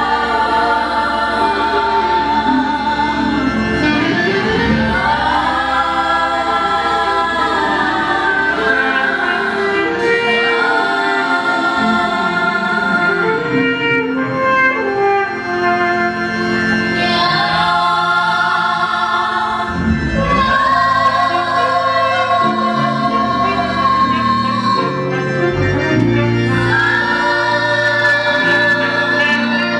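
A church choir singing gospel music in sustained, many-voiced lines, with instrumental accompaniment.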